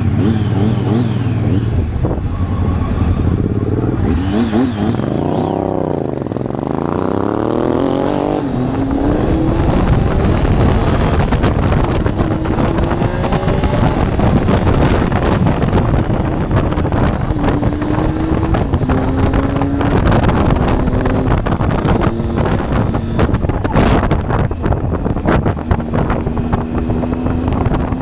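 Triumph Tiger 800's three-cylinder engine under way, with heavy wind rush on the microphone. Around five seconds in the engine note falls and climbs back. After that it rises in several stretches, dropping between them as the gears change up.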